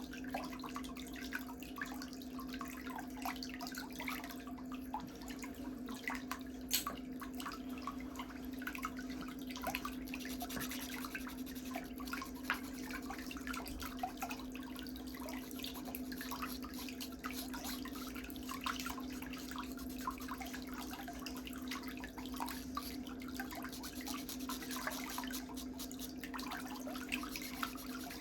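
A small electric motor hums steadily, with many short, irregular clicks and scratchy ticks over it.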